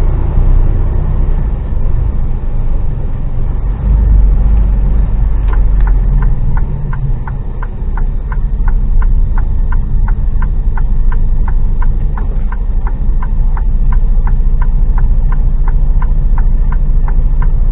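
HGV truck's diesel engine running steadily as heard inside the cab, rising a little in level about four seconds in. From about five seconds in, a regular light ticking joins it at about two ticks a second.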